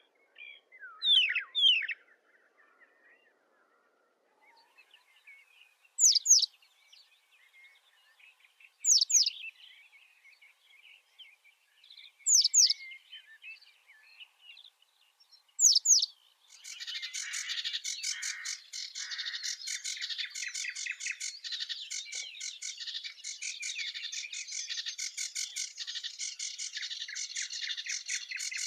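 Birds calling: a loud, sharp double chirp with quickly falling notes, repeated about every three seconds, then from about halfway through a dense, continuous high twittering chatter.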